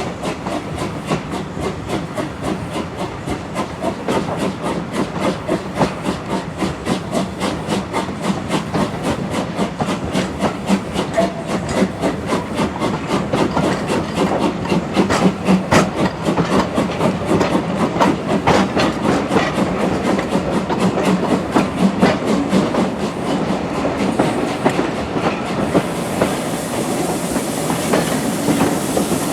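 Steam train running, with a rapid, even beat of clicks and chuffs that grows louder toward the middle. A high hiss of steam comes in near the end.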